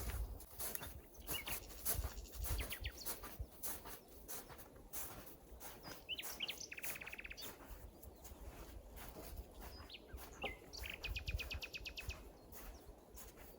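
Wild songbirds calling, with two quick trills of rapidly repeated high notes, one about six seconds in and another near the end, over scattered light clicks and knocks.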